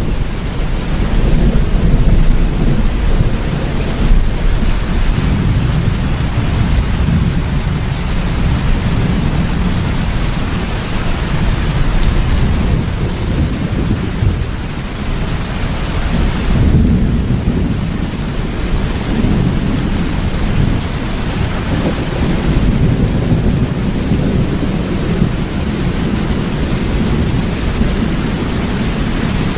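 Steady rain with a continuous low rumble of thunder that swells and eases every few seconds.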